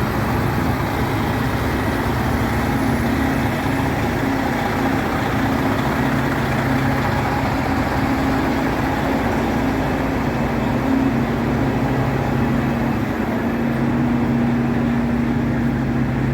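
Car-hauler truck engine idling steadily, a continuous low drone with a hum that holds without a change in pitch.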